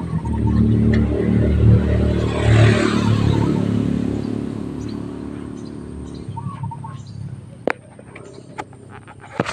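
A motor vehicle engine running close by, swelling about two to three seconds in and cutting out about six seconds in. After it stops, a few short bird chirps and sharp clicks.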